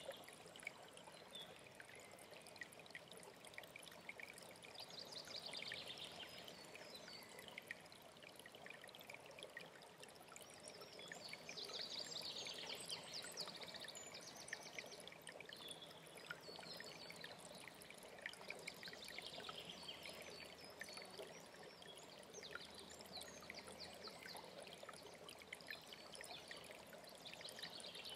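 Mountain stream running steadily, with a songbird singing short rapid trills every few seconds over it.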